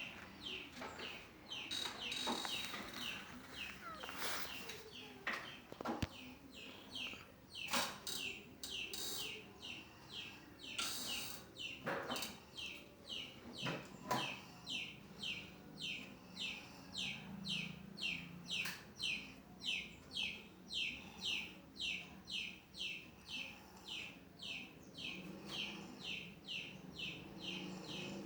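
A bird chirping steadily, short high falling chirps about twice a second, with a few scattered knocks in the first half.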